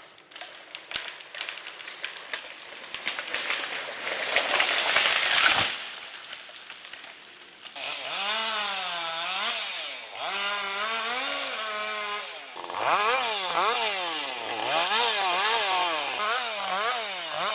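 A rushing noise builds and cuts off sharply about five seconds in. Then a chainsaw revs up and down over and over, its pitch swinging rapidly as the throttle is worked, quicker toward the end.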